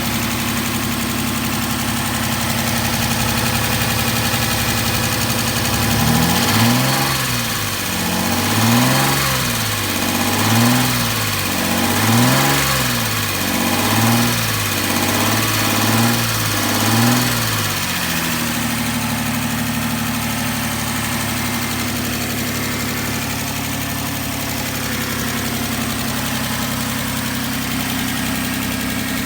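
2003 Suzuki Grand Vitara XL7's 24-valve V6 idling steadily, then revved about seven times in quick succession, each rev rising and falling in pitch, before dropping back to a steady idle. It runs smoothly, with the lifter noise the owner calls typical.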